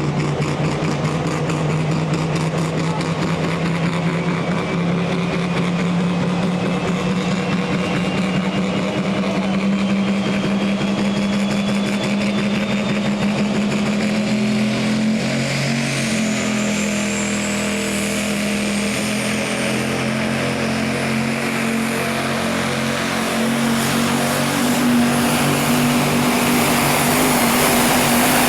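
Diesel pulling vehicle's engine running flat out under load while dragging the sled, its pitch slowly climbing, with a high whine rising in pitch over it. It gets louder in the last few seconds.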